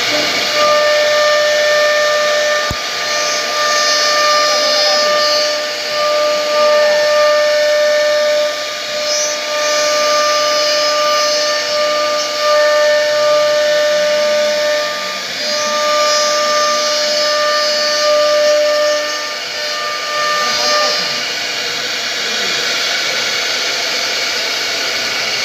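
Power tool running continuously with a loud hiss and a high steady whine that holds for a few seconds at a time, breaks off and comes back, as the tool's load changes.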